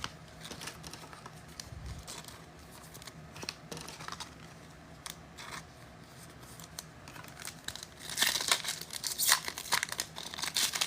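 A plastic trading-card pack wrapper being handled, torn open and crinkled. There are light scattered clicks at first, and the tearing and crinkling get much louder about eight seconds in.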